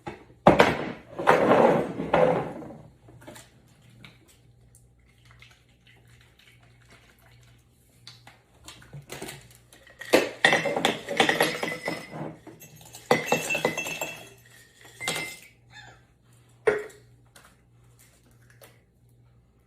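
Dishes and cutlery clattering and clinking in three bouts of about two seconds each, with a single sharp knock near the end.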